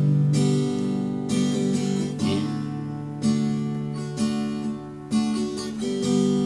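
Acoustic guitar strummed and picked, playing a chord pattern between sung lines of a slow song, with a new chord struck every second or so.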